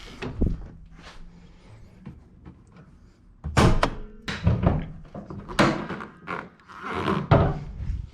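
Several hard thunks and knocks as a broken part is pried and pulled off a pickup truck by hand, loudest about halfway through and again near the end.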